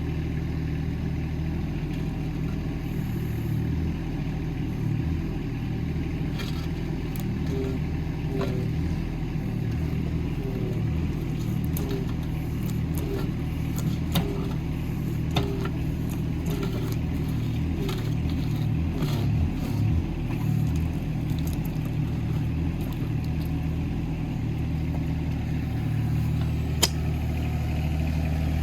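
Hitachi ZX18 mini excavator's diesel engine running steadily while digging, with scattered clinks and knocks as the bucket works through soil and stones.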